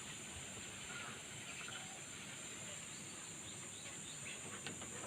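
Faint background noise with a steady high-pitched insect drone, such as crickets or cicadas, and a few soft ticks near the end.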